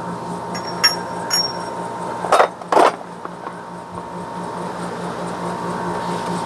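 Two light metallic clinks, then two short loud scrapes, as metal parts are handled during rear-axle assembly, over a steady hum.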